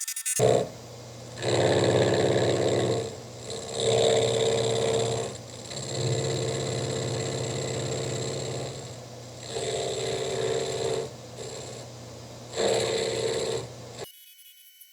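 Motor of a small machine tool running with a steady pitched hum that swells louder for a second or two at a time, several times over, and then falls back.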